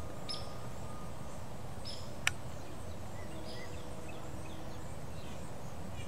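Garden ambience: a steady low background rumble with a few brief, high bird chirps, and one sharp click a little over two seconds in.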